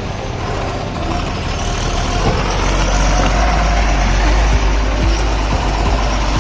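Heavy truck driving on the road: a deep engine rumble with road noise that builds over the first couple of seconds, then holds steady.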